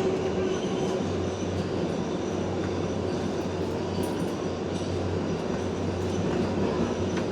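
Inside an R142A subway car running at speed between stations: a steady rumble of wheels on rail with a low hum and a few faint clicks.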